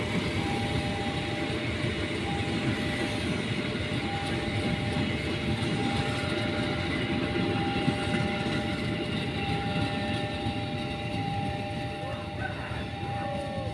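A train running past, its wheels on the rails giving a steady, dense rumble, with a steady high tone held over it.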